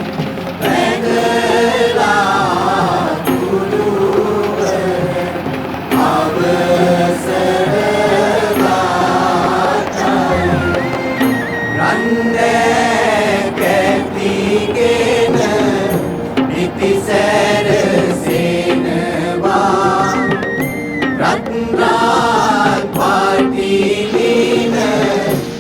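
Chanted singing over music, the voices wavering continuously without a break.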